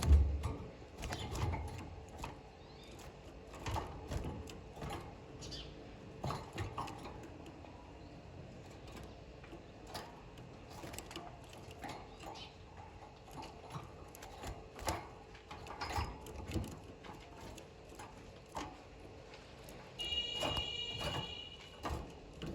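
Canaries moving about in a cage: scattered light clicks and taps, with one brief high steady call about twenty seconds in.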